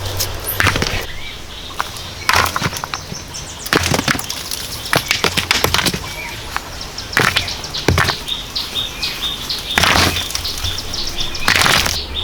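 Irregular strokes of hand work: scrapes and knocks, roughly one every second or two, some short and some drawn out.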